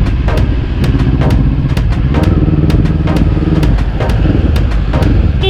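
Honda CB400 inline-four engine running steadily during carburettor synchronisation. Sharp ticks come about twice a second over the engine note, which briefly rises in pitch in the middle.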